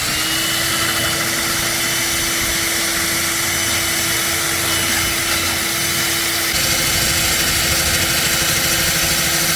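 Hilti diamond core drill motor running steadily under load as the bit cuts the core, a constant hum over grinding noise, getting a little louder about six and a half seconds in.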